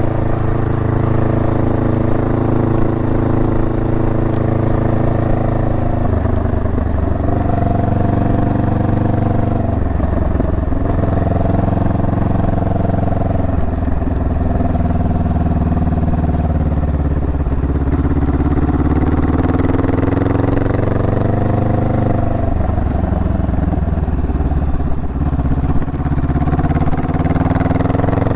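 Honda Rebel 500's parallel-twin engine running under way, holding steady for stretches and changing pitch several times as the throttle and gears change, with a rise in revs near the end.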